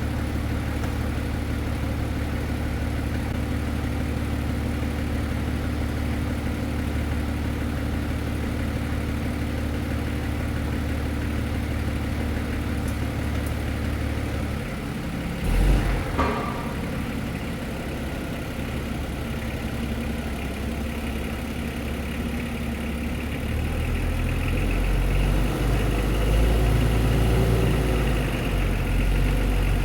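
Forklift engine running steadily as it moves a heavy milling machine, with a short knock about halfway through after which the engine note shifts. The engine runs lower and louder in the last few seconds, as if working harder.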